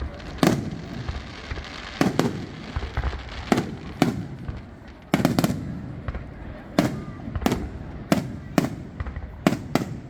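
Fireworks and firecrackers going off: a rapid, irregular series of sharp bangs, roughly one or two a second, each trailing off into a rumble.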